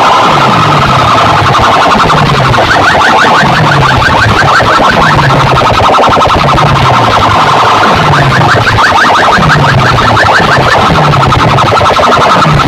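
DJ sound-box speaker rig playing a distorted, siren-like electronic competition track at full volume. A falling bass sweep repeats about once a second under fast warbling chirps higher up.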